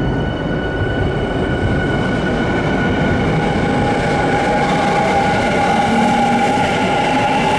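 Electric commuter train running along the underground platform. A steady rumble carries several high, steady motor whines, and another whine joins about three seconds in.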